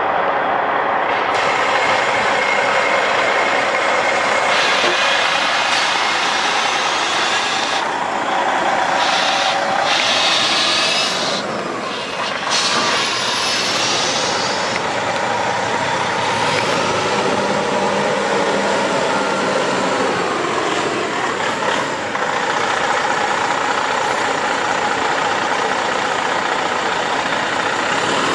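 Detroit Diesel 14-litre straight-six in a Freightliner Columbia tractor running steadily under a heavy hiss of noise. The pitch sags and comes back up about twenty seconds in.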